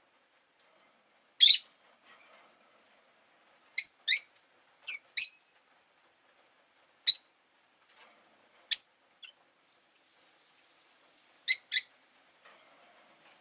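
Peach-faced lovebirds chirping: about ten short, sharp, high-pitched calls, some single and some in quick pairs, with pauses of a second or two between them.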